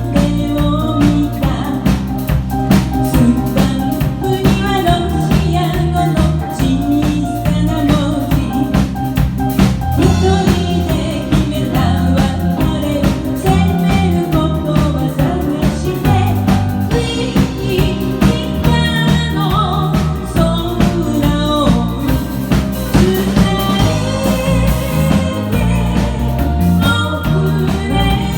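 A band of vocals, keyboards, drum kit and bass plays a Japanese pop song, the singer carrying the melody over a steady drum beat.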